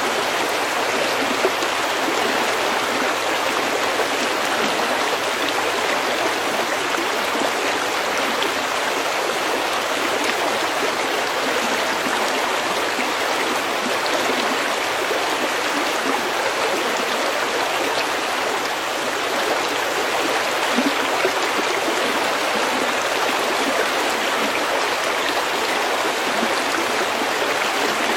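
Stream water running steadily over stones, a continuous even rushing with light splashing and gurgling.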